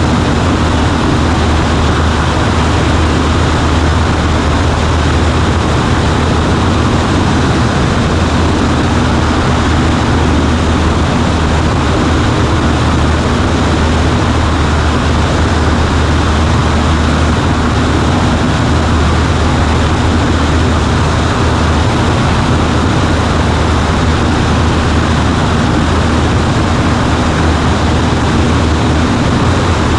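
Cessna 140A's propeller and air-cooled piston engine running steadily, a loud, even drone with a deep hum underneath, heard from the cockpit.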